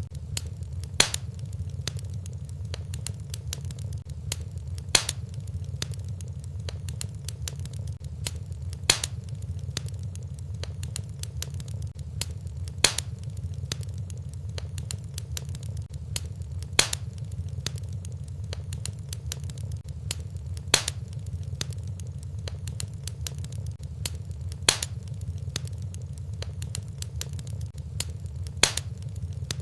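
Fireplace fire crackling over a steady low rumble, with a sharp pop about every four seconds and small crackles between.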